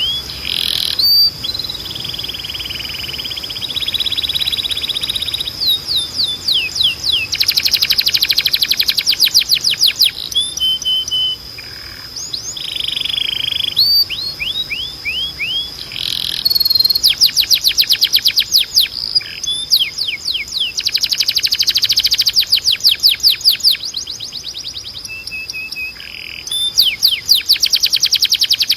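Timbrado canary singing its full song: phrases of fast repeated notes, some runs at about ten notes a second, alternating with sweeping notes and held rolling passages.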